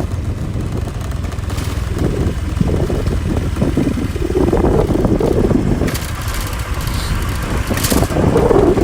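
A motor vehicle running steadily with a continuous deep low rumble, with muffled voices briefly in the middle.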